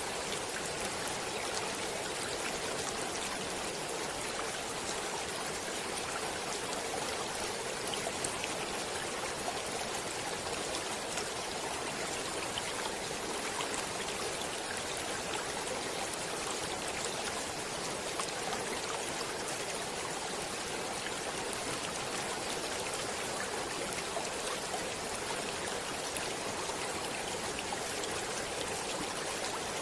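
Water flowing in a stream: a steady rushing with fine splashes and no change in level.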